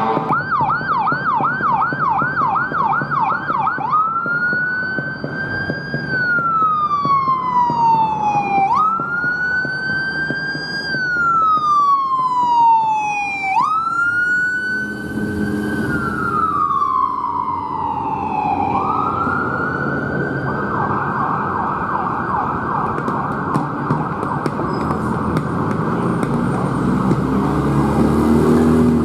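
Emergency vehicle siren responding. It runs a fast yelp for the first few seconds, then three slow rising-and-falling wail cycles, then a steady high tone that holds through the second half, over engine and road noise.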